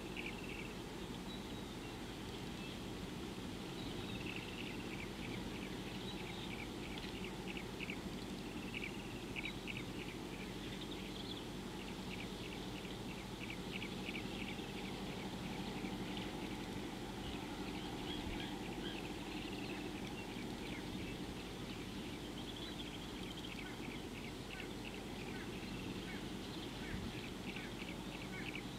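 Birds calling in repeated runs of short, high, metallic-sounding ticks, several a second, over a steady low background rumble.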